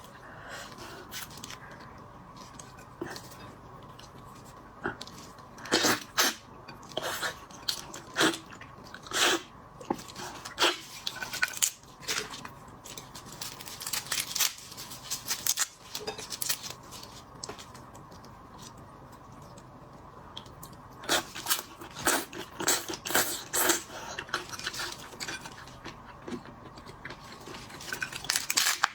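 Shrimp being eaten: shells cracking and tearing as they are pulled apart, with chewing. The sharp crackles come in irregular clusters and thin out for a few seconds in the middle.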